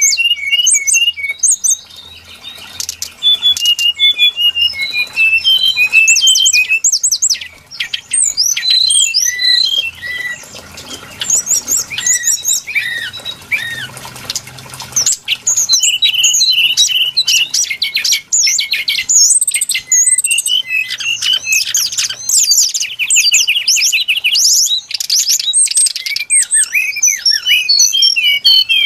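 Brown-chested jungle flycatcher lure recording: a dense run of rapid, varied chirps and squawky notes sweeping up and down in pitch, broken by a couple of short lulls.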